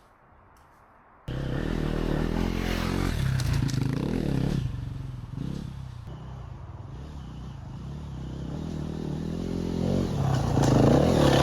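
Enduro dirt bike engine being ridden off-road, revving up and down with the throttle. It cuts in suddenly about a second in and climbs highest near the end.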